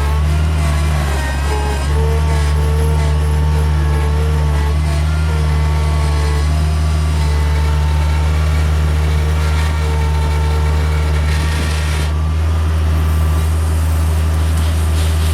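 Bobcat 743 skid steer engine running steadily at a constant speed, with a faint higher whine that comes and goes.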